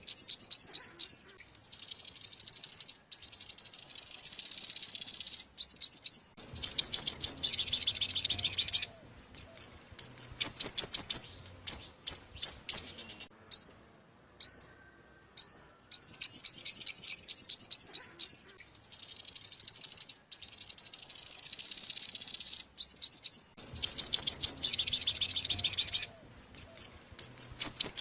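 Five-coloured sunbird song played as a trapping lure call: quick runs of high, sharp chirps and buzzy trills, the same sequence repeating about every fourteen seconds as a loop.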